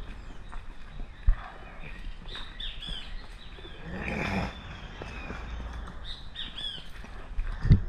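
Birds chirping outdoors in short, repeated curving calls. A sharp low thump comes about a second in, and a few more thumps come near the end.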